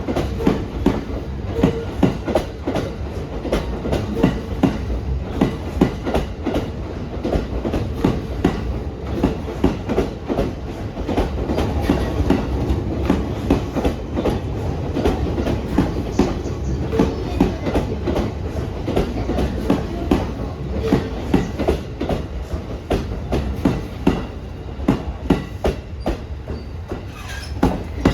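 Coupled E231 series 1000 and E233 series 3000 electric multiple-unit train pulling into a station along a winding track over points. A steady run of wheel clacks over rail joints and switches sits over a continuous rolling rumble.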